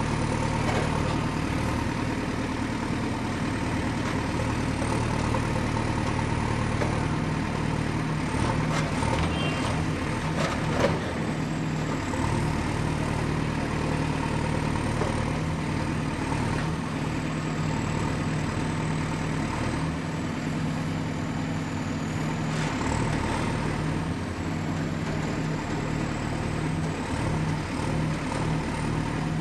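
Excavator engine running steadily at work, with a faint high whine that wavers in pitch and a few knocks and clanks about nine to eleven seconds in.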